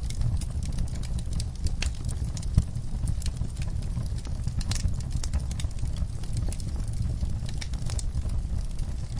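Wood fire crackling in a fireplace: scattered sharp pops and snaps over a steady low rumble, with one louder pop about two and a half seconds in.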